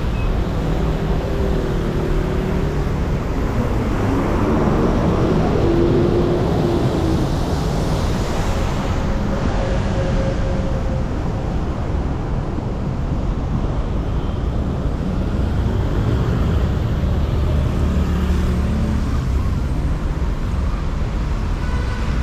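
City street traffic: cars and other motor vehicles passing steadily, with engine tones and tyre noise, louder as vehicles go by about 5 seconds in and again about 17 seconds in.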